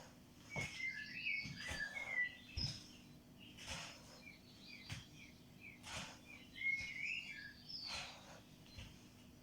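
A small bird chirping and twittering in short bursts, twice in little clusters. Under it come soft swishes and light thuds about once a second from a person stepping forward and pushing off in a knee-to-elbow exercise.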